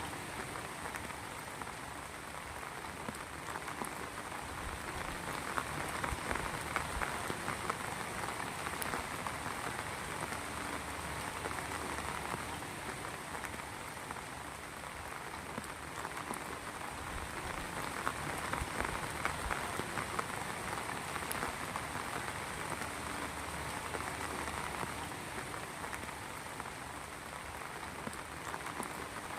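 Heavy rain falling steadily, a dense patter of drops on a surface.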